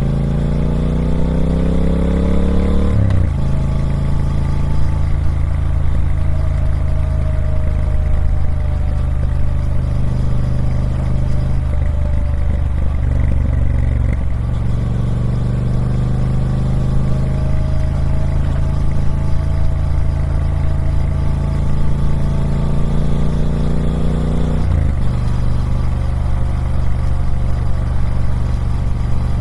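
Triumph Speed Twin 1200's parallel-twin engine on its stock exhaust. The revs climb and then fall abruptly about three seconds in, like an upshift. It then runs at fairly even revs that swell slowly, with another abrupt drop near the end.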